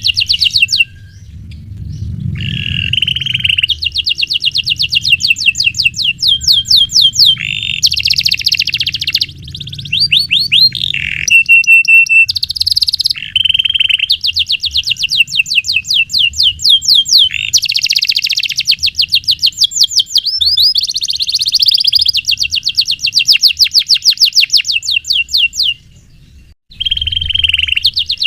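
Domestic canary singing long rolling phrases: fast trills of rapidly repeated high notes, broken by brief pauses, with a held steady whistle near the middle.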